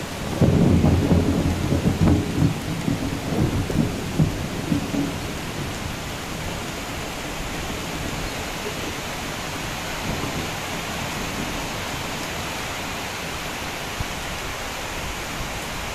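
Light rain falling as a steady hiss, with a loud, uneven low rumbling over the first four or five seconds.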